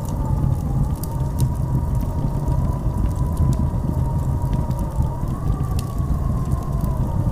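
Blizzard wind howling with a deep, steady rumble and a wavering whistle-like tone that drifts in pitch, rising a little about five seconds in; faint scattered ticks sound over it.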